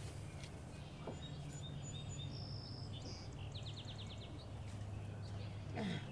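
Birds chirping, with a quick trill of several notes midway, over a steady low hum. A brief falling sound near the end.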